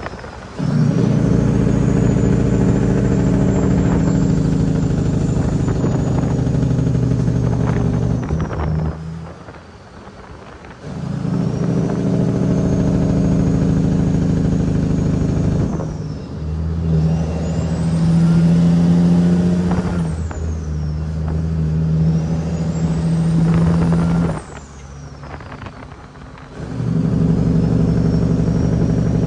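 Caterpillar 6NZ (C15) inline-six diesel in a Kenworth W900L pulling under a heavy load, with a turbo whistle that rises and falls as the engine works. Twice the engine note drops away for about two seconds, then comes back in.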